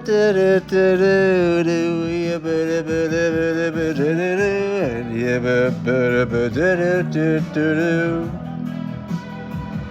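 Singing with long, held notes that waver in pitch and slide up and down, over a guitar accompaniment.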